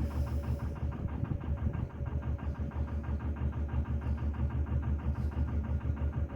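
A narrowboat's engine running steadily while cruising, with an even rapid beat of about five pulses a second.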